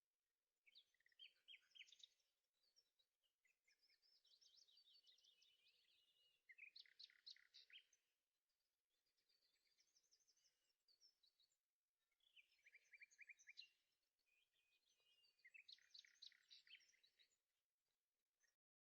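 Faint birdsong: repeated bursts of quick chirps and trills, each lasting a second or two, coming every few seconds.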